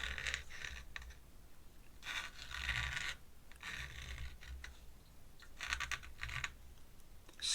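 A drawing pen scratching across paper in four separate strokes, each about a second long.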